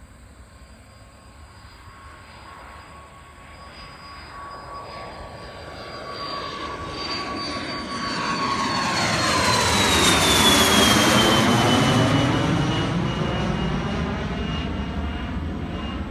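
Learjet business jet climbing out just after takeoff and passing by: the jet engine noise swells to a peak about ten seconds in, and its high whine drops in pitch as the jet goes past, then eases off slightly.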